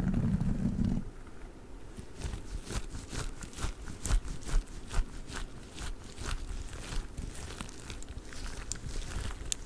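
A squishy durian toy handled by fingers close to the microphone. A low rubbing for about the first second gives way to a run of quick, crisp crinkly clicks.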